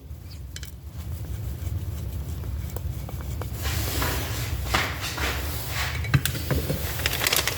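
Small metal clicks and scraping from a screwdriver and parts being worked on a distributor, tightening the screws that lock its bearing in, growing busier about halfway through, over a low steady hum.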